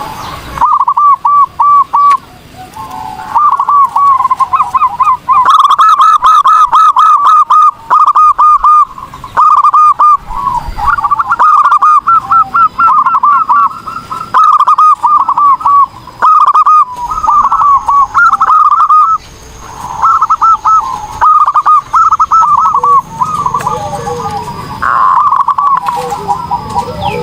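Zebra dove (perkutut) singing: bouts of rapid, staccato cooing notes, one after another, broken by short pauses. Loud and close.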